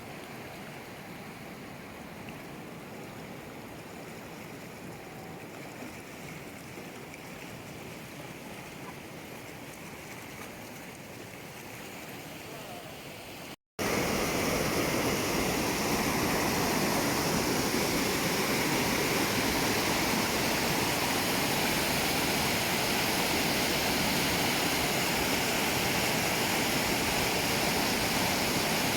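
Steady rush of flowing mountain water. About halfway through it breaks off for an instant and resumes much louder.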